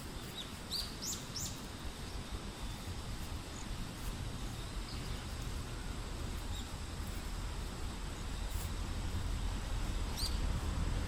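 A few short, high bird chirps, a quick cluster about a second in and another near the end, over a steady low outdoor rumble that grows louder toward the end.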